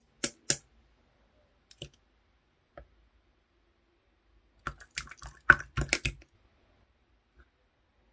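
Clear slime with plastic ice-cube pieces being pressed and handled, making sharp clicks and crackles: two near the start, single ones about two and three seconds in, then a quick run of crackling clicks around five to six seconds in.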